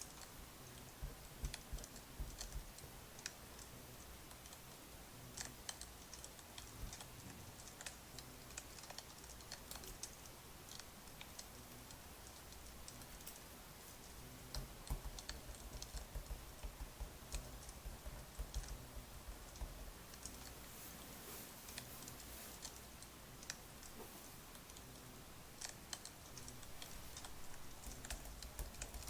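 Wood fire crackling: irregular sharp snaps and pops over a steady low hiss.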